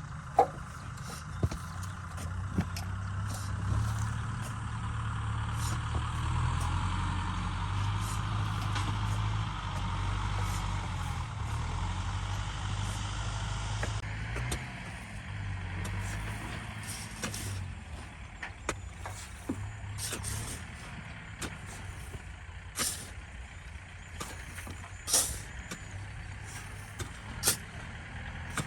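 Kubota ZT 155 DI single-cylinder diesel tractor engine running steadily, a little louder for several seconds in the first half, with scattered sharp knocks and rattles, the loudest near the start and twice near the end.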